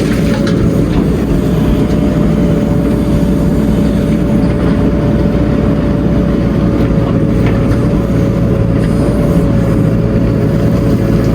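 Heavy diesel engine running steadily at a constant speed, a low rumble with a steady whine over it.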